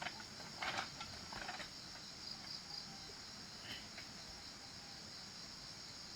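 Steady high-pitched chorus of crickets or similar insects, with a few faint knocks in the first couple of seconds.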